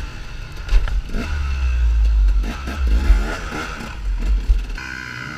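Off-road motorcycle engine revving up and down, over a heavy low rumble, with a couple of sharp knocks.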